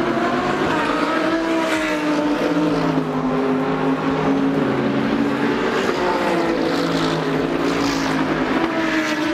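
Car engines running, with their pitch slowly rising and falling.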